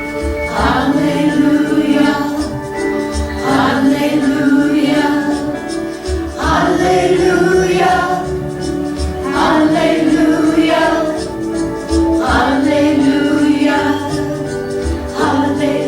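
Recorded choral song played back over the room's sound: sustained choir voices over instrumental accompaniment, with a low bass note about every three seconds.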